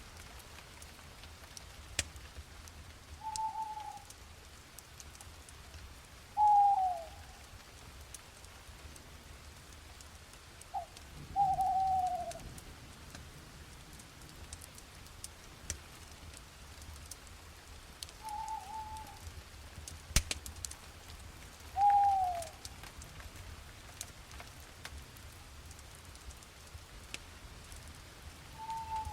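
Owl hooting: single short hoots several seconds apart, about six in all, some dropping in pitch at the end. Under the hoots, light steady rain with scattered sharp drop ticks.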